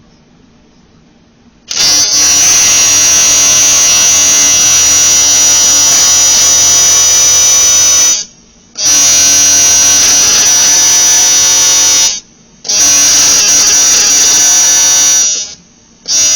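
TIG welding arc buzzing loudly as weld bead is built up on the broken cooling fins of a Suzuki AP50 aluminium cylinder head. It strikes about two seconds in and runs in four stretches of a few seconds each, broken by short pauses as the arc is stopped and restarted.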